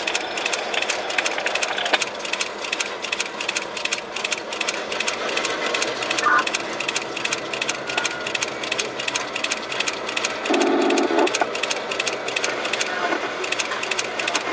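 Freight train of covered hopper cars rolling slowly past, its wheels giving a rapid, steady clicking on the track. A short horn-like tone sounds once, about ten and a half seconds in.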